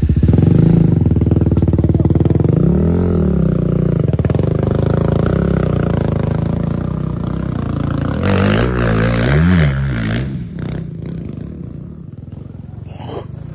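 Motocross motorcycle engine running, with the throttle blipped so the pitch rises and falls about three seconds in and again about nine seconds in; it grows quieter near the end.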